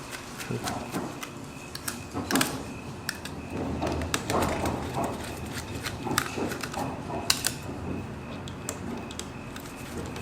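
Irregular small clicks, taps and scrapes of hands and a small tool working on a laptop DVD drive's thin metal and plastic casing while its screws are taken out.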